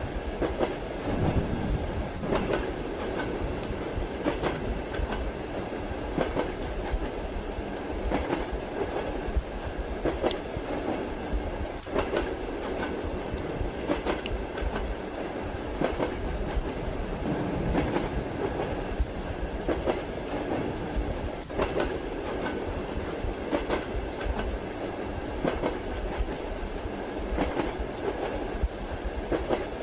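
Passenger train carriage heard from inside: a steady rumble and hiss of the moving train, with irregular clicks of the wheels over rail joints every second or two.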